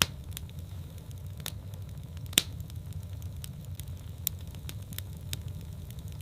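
Wood fire in a fireplace crackling, with irregular sharp pops and snaps over a steady low rumble of the flames; one louder pop comes about two and a half seconds in.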